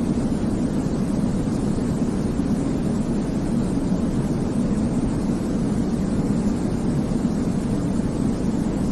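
Steady, deep white noise for baby sleep: an even hiss with most of its weight in a low rumble and no changes or breaks.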